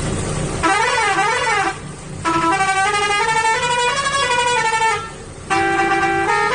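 A truck engine running, which gives way about half a second in to a vehicle horn. The horn first warbles up and down, then sounds as a multi-tone musical horn playing a short stepped tune in two phrases, with a brief gap between them.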